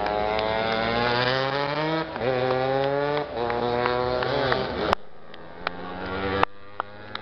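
Racing motorcycle engines revving hard as the bikes accelerate down the straight, climbing in pitch with a gear change about two seconds in and another about a second later. The engine sound drops away about five seconds in, leaving a few sharp clicks.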